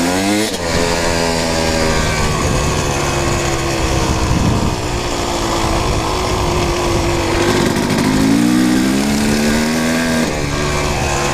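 Kawasaki KX250 two-stroke dirt bike engine under hard acceleration. The revs climb near the start, hold, then climb again before dropping about ten seconds in, as at a gear change or throttle roll-off.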